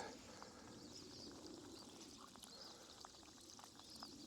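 Hot water poured gently into a silicone cup, a faint soft trickle, with faint birds chirping.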